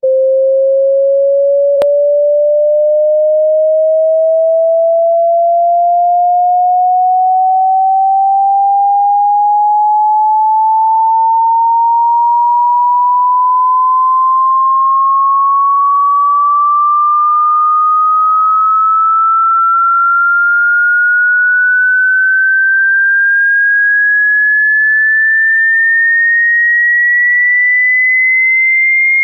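A loud electronic pure tone sliding slowly and steadily upward in pitch, from a low-mid hum to a high whistle, with no break. A brief click about two seconds in.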